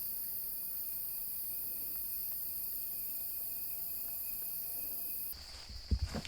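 Steady, high-pitched chorus of rainforest insects, with a faint steady whistle-like tone beneath it. The chorus drops off abruptly about five seconds in, and a few low thumps follow near the end.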